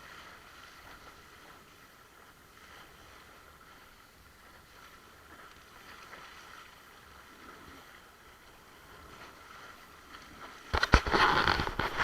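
Windsurf board planing or sailing over water, with a faint steady hiss of water along the hull. Near the end comes a loud burst of splashing and spray.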